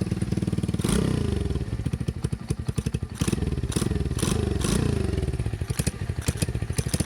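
Small Chinese pitbike-type four-stroke single-cylinder engine idling, with its throttle blipped several times and the revs falling back after each. It sounds healthy after being run past 10,000 rpm.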